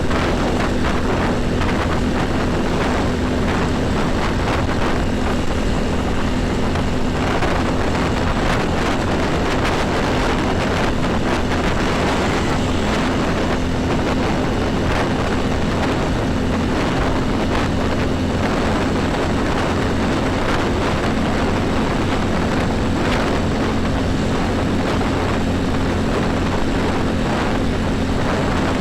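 A steady, unchanging vehicle engine drone with road noise.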